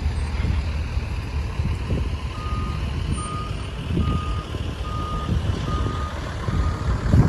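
Truck's diesel engine idling with a steady low rumble while its reversing alarm sounds about six evenly spaced beeps from about two seconds in: the truck is backing up.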